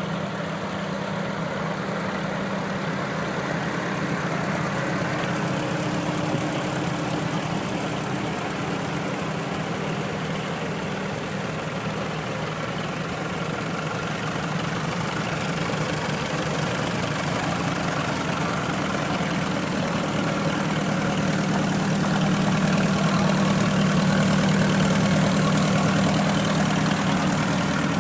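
Antique tractor engines running steadily at low speed as the tractors roll past, with a low, even drone that grows louder for several seconds near the end.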